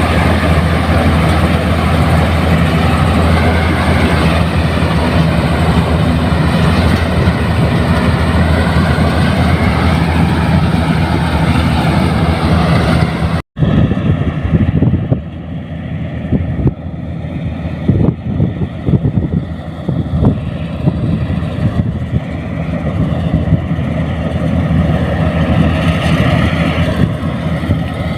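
Harvester running at work cutting chickpeas, its engine and machinery making a loud, steady hum. After a break about halfway in, the running turns rougher, with many short knocks and rattles, then evens out again near the end.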